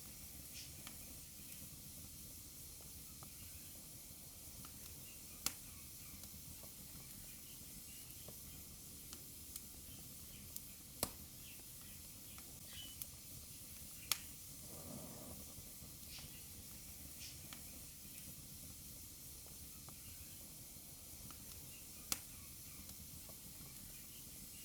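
Wood fire burning in a fireplace: a faint steady hiss with scattered sharp crackles and pops, four of them standing out clearly, and a soft puff of flame about halfway through.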